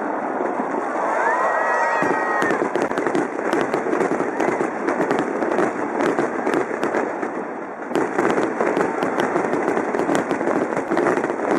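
Aerial fireworks shells bursting in rapid, continuous succession, a dense run of bangs and crackles.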